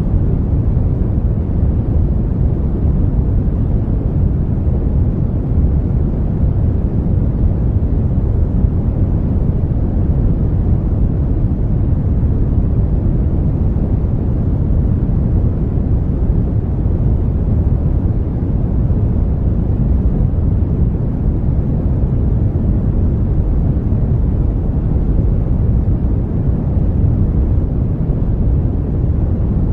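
Brown noise: a steady, even rumbling hiss weighted heavily toward the low end, with little above the midrange.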